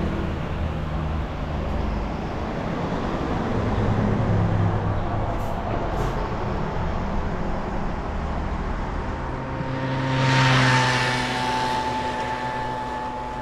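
Mercedes-Benz car driving, with steady engine hum and road noise; the noise swells louder about ten seconds in.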